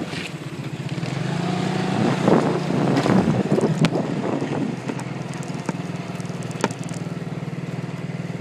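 Small motorbike engine running steadily while riding, its low hum continuous, with a louder rough patch in the middle and a few short sharp knocks.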